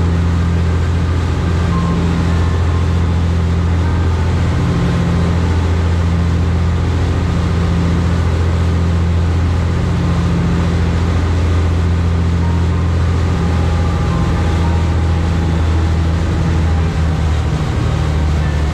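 High-speed passenger boat's engines running steadily at cruising speed: a loud, even, deep drone heard on board.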